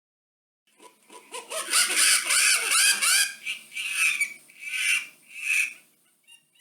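Goose honking: a rapid run of repeated honks, then a few slower, spaced honks that die away near the end.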